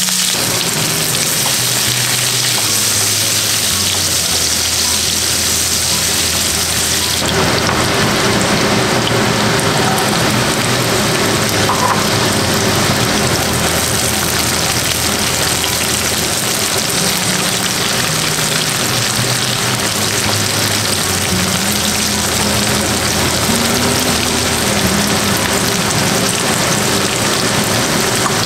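Sliced vegetables, carrots first, sizzling steadily in hot oil in a nonstick kadai as they are stir-fried. About seven seconds in, the sizzle changes and becomes fuller.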